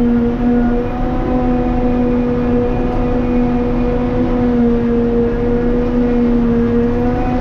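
Forage harvester running steadily while chopping grass, a constant machine drone with a strong, steady low hum and its overtones.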